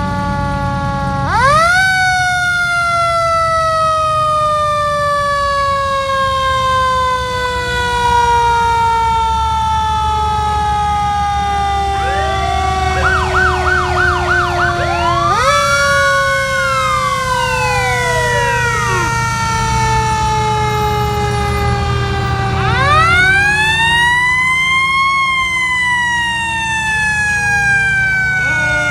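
Fire truck sirens sounding together: one siren's pitch jumps up about a second in and then slowly winds down, jumping again about halfway through, while other sirens warble quickly and wail up and down over it. The trucks' engines rumble low underneath.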